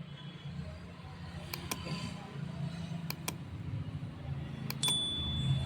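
Three pairs of short, sharp clicks about a second and a half apart, from a small fuse and two-pin plug being handled and fitted together, over a steady low hum.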